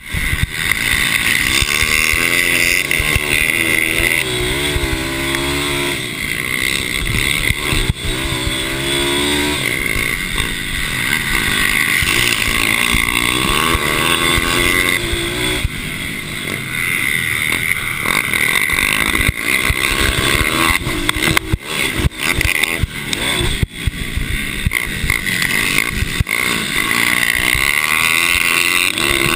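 Mini bike racing engines revving hard, their pitch rising and falling again and again as the riders accelerate and shift, with more than one bike heard at once in places.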